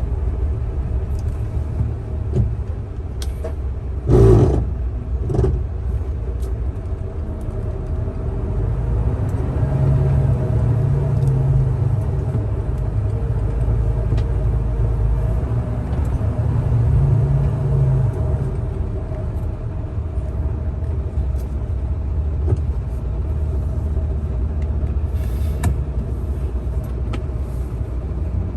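Heavy diesel engine of a mining dump truck rumbling steadily, working harder twice in the middle, with a loud clunk about four seconds in and a smaller one a second later.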